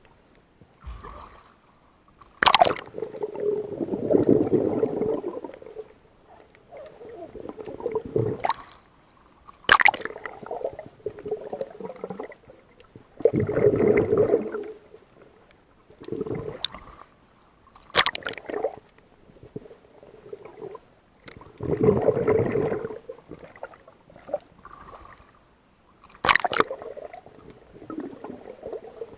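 Sea water sloshing and gurgling in surges about every four seconds, several of them starting with a sharp click or knock.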